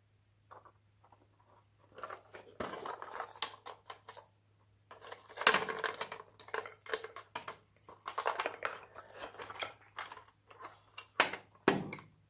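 Slime being squished and stretched by hand: irregular bursts of wet crackling and popping, with two sharp pops near the end.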